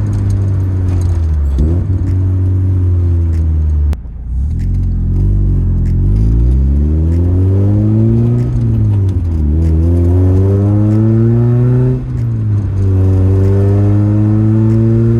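1992 Mazda Miata's 1.6-litre four-cylinder engine through a new ISR exhaust, driving and accelerating: the pitch climbs, drops sharply at gear changes about 4 and 12 seconds in, then climbs again and holds steady.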